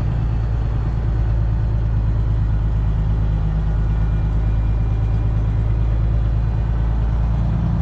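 Semi truck's Detroit Diesel 12.7 engine running at a steady low idle, a constant low drone heard from inside the cab.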